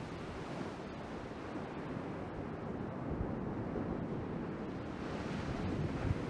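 Ocean surf washing steadily, with wind buffeting the action camera's microphone and a few brief low thumps.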